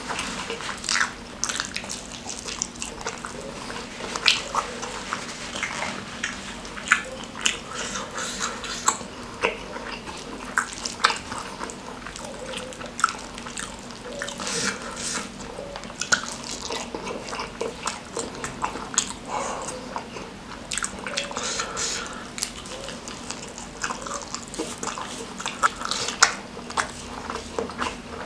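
Close-up mouth sounds of eating rice with oily curry side dishes by hand: wet chewing and lip smacking, in irregular sharp smacks and clicks.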